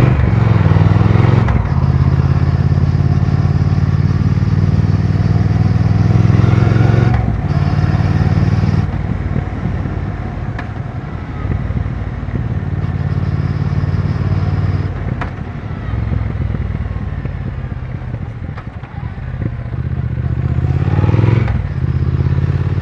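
2020 Triumph Speed Twin 1200's parallel-twin engine under hard acceleration, revs climbing and breaking off at gear changes, then easing to a quieter, lower-revving run about nine seconds in before climbing again near the end.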